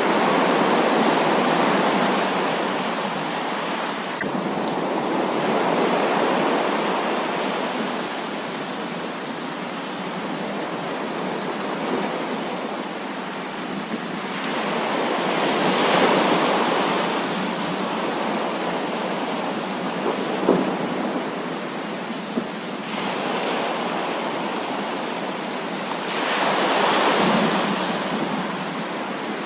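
Heavy rain falling steadily, with thunder rolling in four slow swells that rise and fade over a few seconds each. A single sharp tap stands out about two-thirds of the way through.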